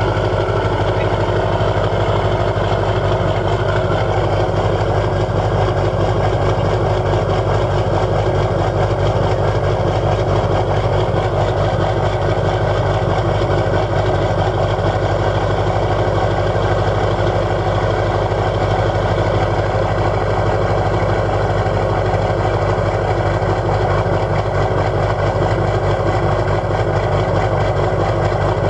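LB7 Duramax 6.6-litre V8 turbodiesel idling steadily with a lopey idle while still cold from a cold start.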